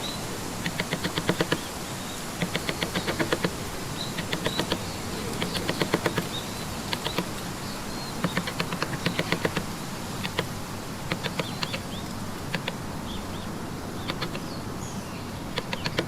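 Rapid runs of mallet taps on a carving chisel cutting into trembesi wood, about ten taps a second in bursts of roughly a second with short pauses between, over a steady background hiss.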